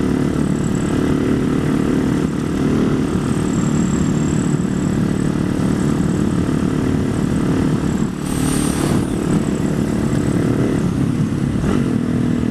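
Husaberg supermoto's single-cylinder engine running steadily under way, heard from the rider's position, with a brief rush of noise about eight seconds in and the engine note falling as it slows near the end.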